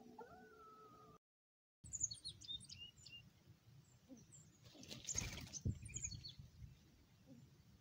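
Small birds chirping, with short high chirps in a flurry about two seconds in and a few more later, and a brief rustle around five seconds.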